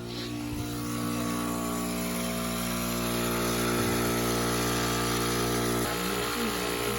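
Vacuum pump of a cow milking machine running, a steady motor hum that grows a little louder about a second in.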